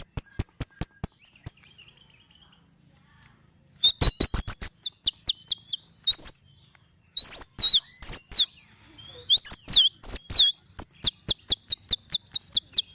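White-rumped shama singing: fast runs of sharp ticking notes and high trills, with a pause of about two seconds near the start, upward-sweeping whistled notes in the middle, and a steady rapid series of notes near the end.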